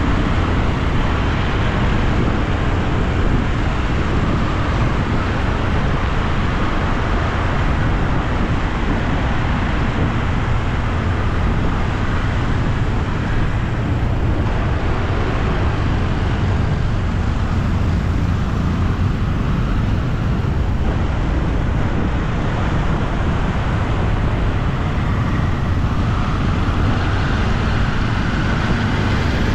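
Steady, even road traffic noise with no single vehicle standing out.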